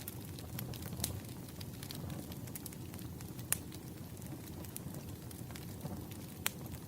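Burning firewood crackling, with scattered sharp pops, a few louder ones about a second in, midway and near the end, over a steady low rumble of the fire.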